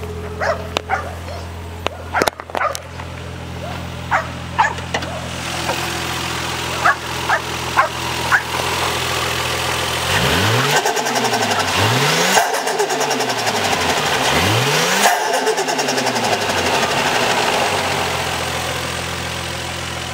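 Toyota 1JZ-GTE VVT-i turbocharged straight-six idling steadily, then revved three times; each rev climbs quickly and falls back to idle.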